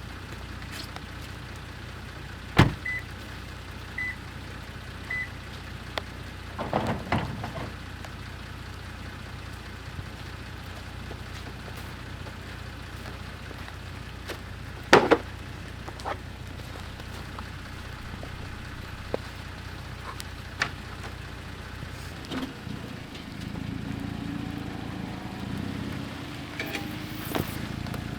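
Sounds in and around a Toyota Tacoma: a steady low hum with scattered knocks and clunks, the loudest about 2.5 s and 15 s in, and three short electronic beeps early on. About 22 s in, the hum gives way to a louder, rougher low rumble.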